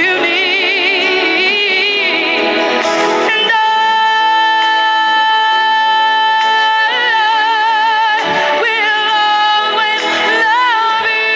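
Pop song with a woman singing over backing music, holding one long note from about a third of the way in, with vibrato on the shorter notes around it.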